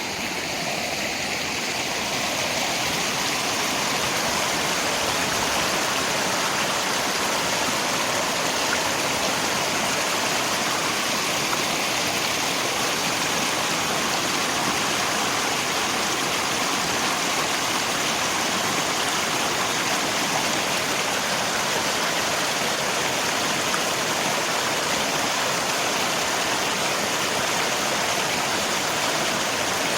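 Steady rush of river water with rain falling, an even hiss that swells slightly over the first few seconds and then holds constant.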